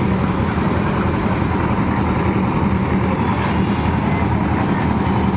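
Engine of construction machinery running steadily, a continuous low drone with a steady pitch.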